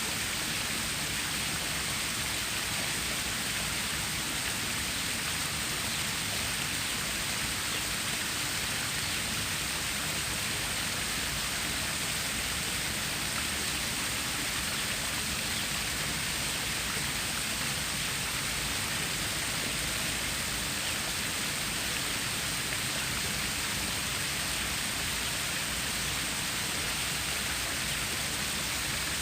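Flowing water of a stream or small waterfall: a steady, even rush with no change throughout.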